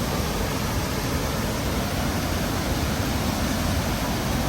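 Rhine Falls waterfall, a steady heavy rush of falling water.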